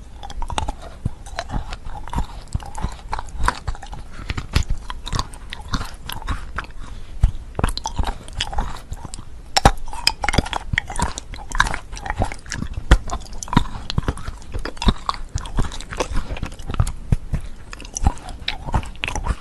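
Close-miked biting and chewing of thin molded chocolate shells, with crisp snapping bites and crunching. Many sharp cracks come in quick succession throughout.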